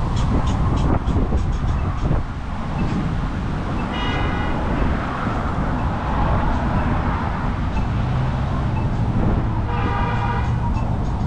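Steady low rumble of wind and road noise while cycling through town. Two short pitched toots sound over it, about four seconds in and again near the end.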